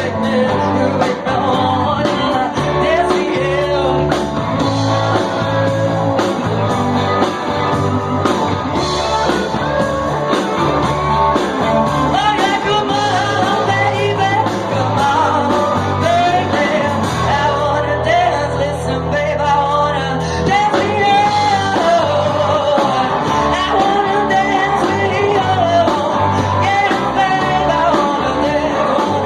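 Live garage-rock band playing loudly: a singer over bass and drums.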